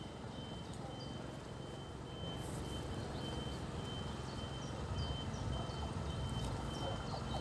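A high electronic beep pulsing evenly, about one and a half times a second, over a low rumble that swells slightly about two seconds in. Short bird chirps repeat above it.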